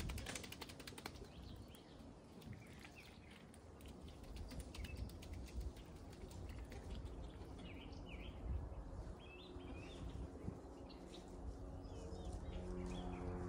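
Scattered short bird chirps every second or two over a faint low rumble. A quick run of small ticking clicks opens it, and a steady hum with several tones comes in near the end.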